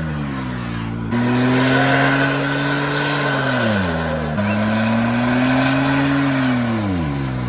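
A car engine held at high revs during a burnout. The revs sag and then jump back up abruptly twice, under a steady hiss of spinning tyres.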